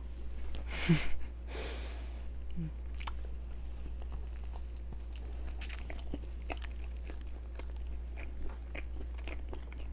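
Biting into a strawberry yogurt cream donut and chewing it close to the microphone. The loudest part comes one to two seconds in, followed by small scattered mouth clicks over a steady low hum.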